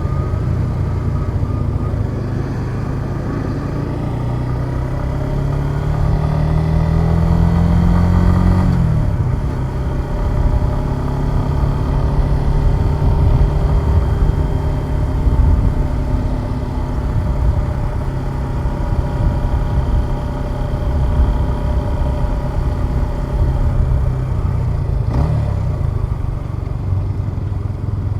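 Suzuki Gixxer 150 SF's single-cylinder engine under way, its pitch climbing as the bike accelerates for about eight seconds, then dropping suddenly and running on fairly steadily.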